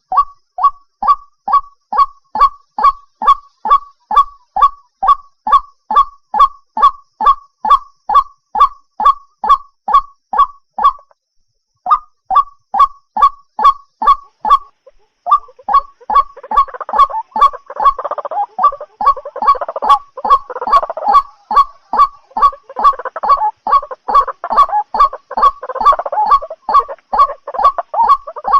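White-breasted waterhen calling: a loud, steady run of repeated 'kwak' notes, a little over two a second, with short breaks about 11 and 15 seconds in. From about 16 seconds a rougher, croaking chorus overlaps the repeated notes.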